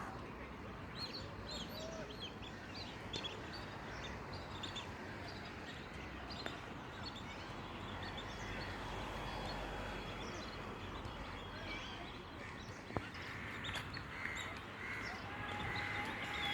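Many birds calling, with short high chirps and calls scattered throughout over a steady background hiss of outdoor noise.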